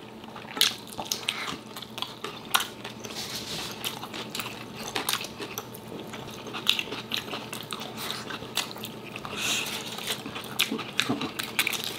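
Close-miked eating sounds: biting and chewing with many small crackles, clicks and mouth smacks.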